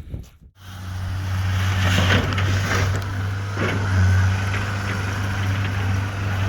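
Skid steer engine running steadily under work, coming in about half a second in, with a few knocks on top.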